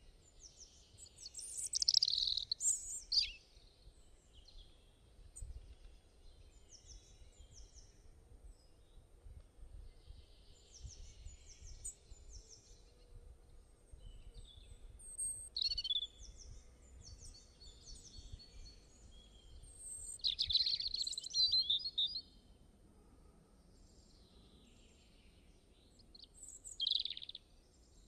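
Songbirds singing and chirping, with several birds calling back and forth; louder song phrases come about two seconds in, around the middle, and near the end, between softer chirps and over a faint low rumble.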